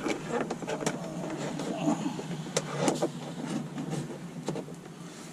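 Dash cam wire and plastic interior trim being handled and pushed into place, with irregular small clicks and rustling.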